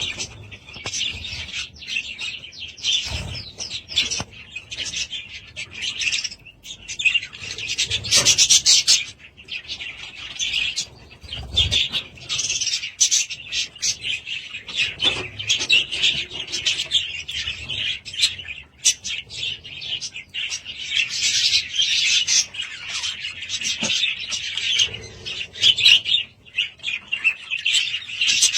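A flock of budgerigars chattering and chirping without pause, many quick high warbles and tweets overlapping, with a few soft low thumps.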